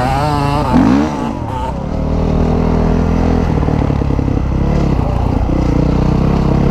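Dirt bike engine revving up and back down in the first second, then running at a steady speed.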